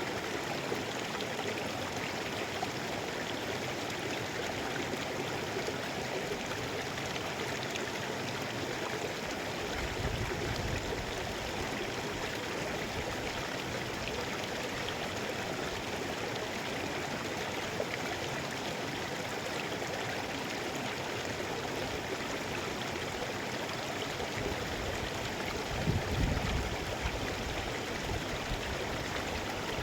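Mountain river flowing steadily, an even rush of water, with brief low rumbles about a third of the way in and again near the end.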